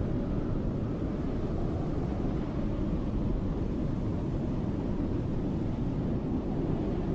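Snowstorm wind blowing steadily, a low, deep rush with no gusts or breaks.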